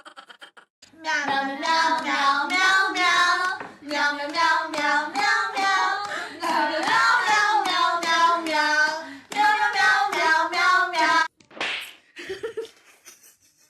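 A high voice goes through a wavering melody of short sung notes, in runs broken by brief pauses, then stops about eleven seconds in, followed by a few sharp clicks.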